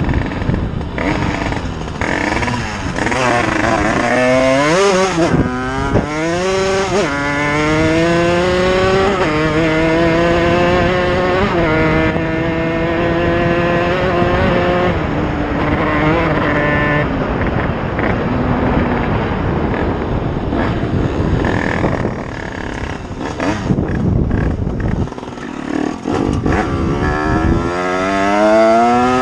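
Motorcycle engine accelerating through the gears. Its pitch climbs and drops back at each shift, then holds steady at a cruise. Near the end it eases off and then climbs again.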